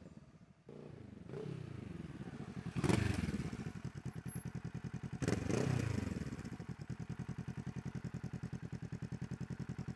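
Kawasaki Z650 motorcycle running through an Ixil exhaust with the dB killer removed: idling with two quick throttle blips, about three and five seconds in, each falling back. It then settles into a steady, pulsing idle.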